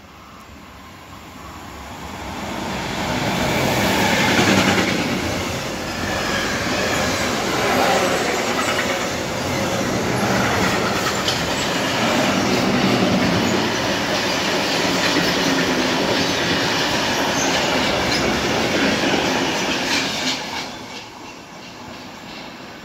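Freight train hauled by a Class 185 electric locomotive passing through the station: the noise builds as the locomotive approaches and peaks about four seconds in, then a long string of sliding-wall freight wagons rolls by with steady wheel clatter over the rail joints. The sound drops away suddenly about two seconds before the end.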